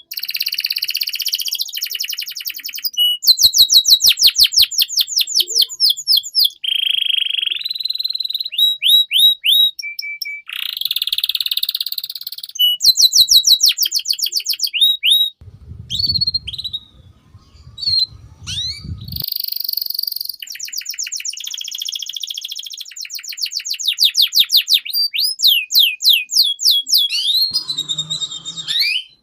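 Domestic canary singing a long, varied song: phrase after phrase of fast runs of one repeated rising or falling note, and trills, with short breaks between phrases. A low rumble sits underneath for a few seconds about halfway through.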